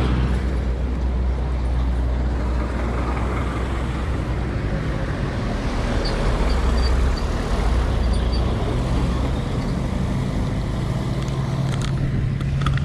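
Steady wind rumble and road noise on a camera carried along on a moving bicycle, with traffic-like noise in the background.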